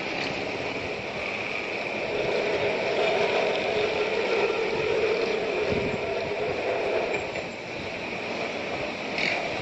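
Steady rumble and rattle of a rail vehicle running, swelling in the middle, with a brief knock about six seconds in.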